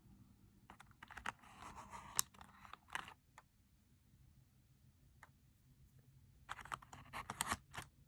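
Slime being mixed, giving off quick runs of crisp clicking pops in two bursts, one about a second in and another near the end.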